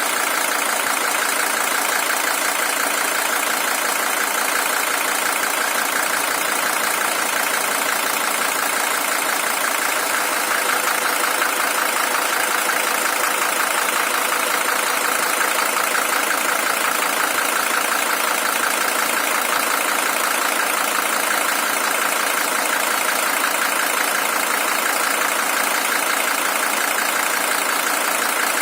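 Mercedes-Benz OM617 five-cylinder diesel engine idling steadily with its clattering diesel knock, an original engine at 620,000 km.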